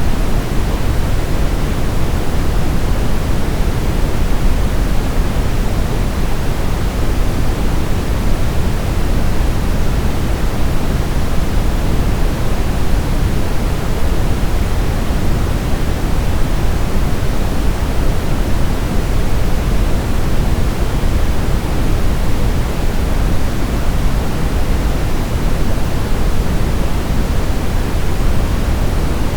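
Brown noise: a steady, even hiss weighted heavily toward the low end, like a deep rumble, with no change in level throughout.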